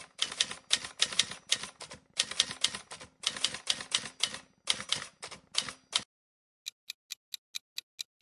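Typewriter typing: fast bursts of key strikes, a clatter of sharp clicks, for about six seconds. After a short pause comes a run of evenly spaced ticks, about five a second.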